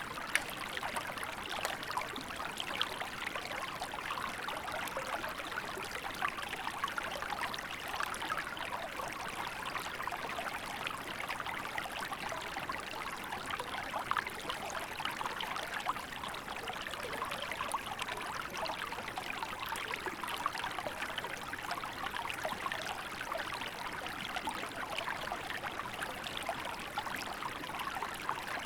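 A small river running steadily, water trickling and splashing over stones in an even rush with many small splashes.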